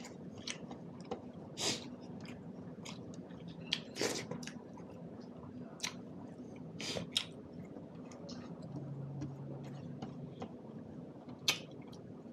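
A man chewing buffalo meat and millet dhido, with irregular wet smacks and clicks of lips and teeth.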